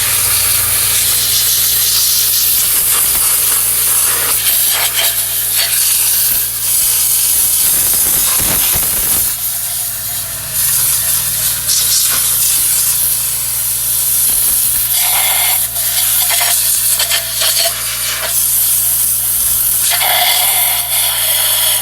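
Compressed air hissing loudly from an air blow gun in long blasts with a few short breaks, blowing pooled water out of the engine's spark plug area, where the water had been shorting out the plugs.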